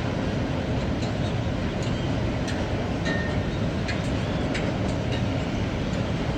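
Train rolling past with a steady rumble, scattered clicks from the wheels and couplings, and a couple of brief faint squeaks about halfway through.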